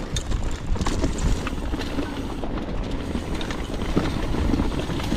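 Mountain bike ridden down a dirt trail: a steady low rumble of tyres and wind on the camera microphone, with continual clicking and rattling from the bike over rough ground.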